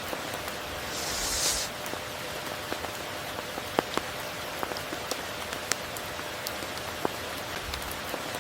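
Steady rain falling, an even hiss with scattered sharp drip ticks, and a brief louder burst of high hiss about a second in.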